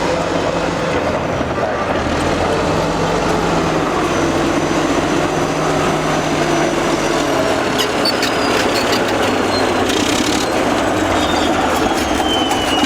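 Old Caterpillar D8 crawler bulldozer's diesel engine running steadily while bulldozing, its low drone shifting in pitch about halfway through. Faint high squeals come in over it near the end.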